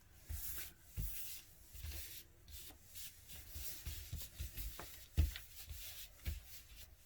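Tarot cards being shuffled and handled: soft rustling and sliding of cards, with a few light taps, the firmest about five seconds in.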